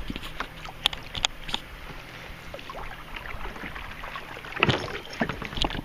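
Handling noise on a fishing kayak: scattered clicks and knocks against a background of water noise, with a louder knock about three-quarters of the way through.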